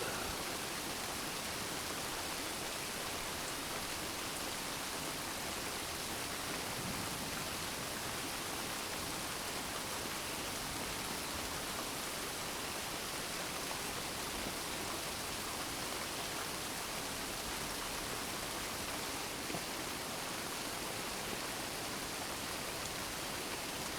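Steady gentle rain falling, an even hiss of many drops with no thunder.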